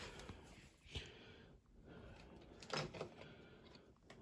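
Faint handling noises: a light click about a second in and a brief soft rustle or knock near three seconds, over quiet room tone.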